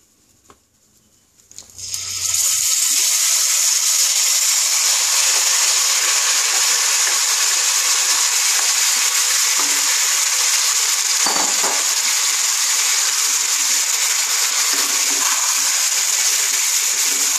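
Marinated chicken hitting hot oil and butter in a kadai, starting a loud, steady sizzle about two seconds in, the meat beginning to fry. A wooden spatula stirs the pieces through the hot fat.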